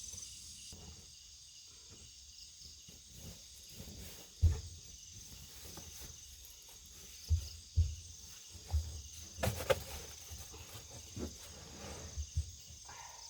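Crickets and other insects trilling steadily in a high, continuous chorus, with scattered low thumps and knocks through it, the sharpest about four seconds in and a cluster near the middle.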